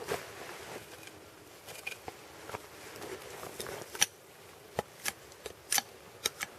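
Wood fire crackling, with scattered sharp pops that come more often in the second half.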